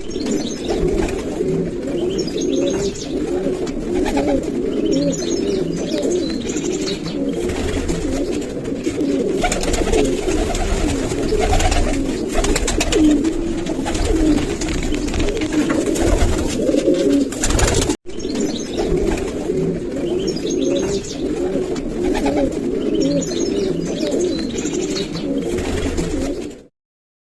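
Domestic pigeons cooing, many coos overlapping without a break. The sound cuts out for an instant about eighteen seconds in and stops abruptly near the end.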